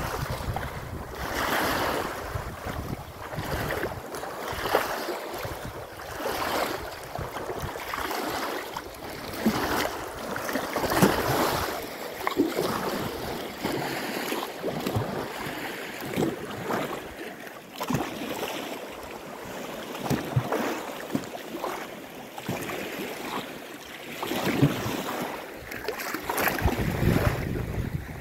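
Small lake waves washing onto the shore in repeated surges, with wind buffeting the microphone at the start and again near the end.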